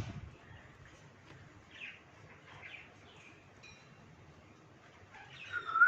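Faint, scattered chirps from pet parrots, then near the end a loud, clear whistle with a wavering pitch.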